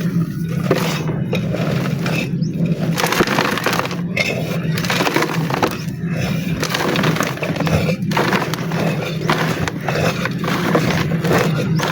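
Dry, dusty black mud crumbling and crunching, a dense, irregular crackle of breaking clumps, over a steady low hum.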